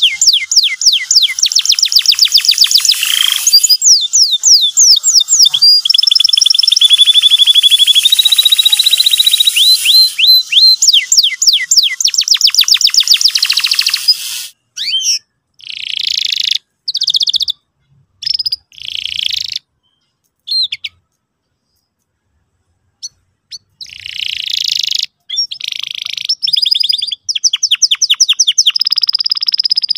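Domestic canary singing lively song: fast runs of repeated high chirps and sweeping trills. The song is continuous for about the first half, then comes in short phrases separated by brief silences, with a pause of about two seconds past the middle.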